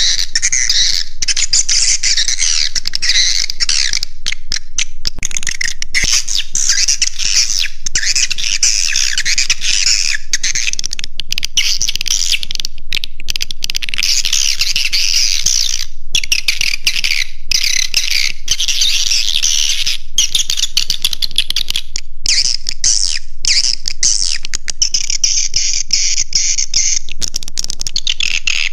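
Recorded edible-nest swiftlet calls: a dense, continuous high-pitched twittering chatter with brief breaks, played as a roosting lure call to draw swiftlets into a nesting house. Near the end the chatter gives way to a steadier, more even chirping.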